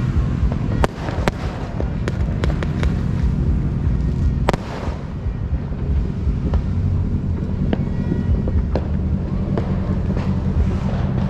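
New Year fireworks and firecrackers going off over a continuous low rumble of massed bursts, with many sharp separate bangs. The biggest bang comes about four and a half seconds in.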